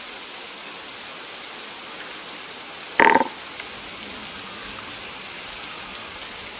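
Steady rain falling on the pond, with one short, loud sound about three seconds in and a few faint high chirps.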